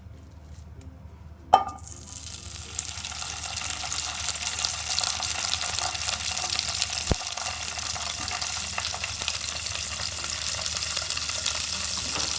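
Food hitting hot butter in a frying pan with a sudden sizzle about a second and a half in, then steady frying sizzle, with a single click about halfway through.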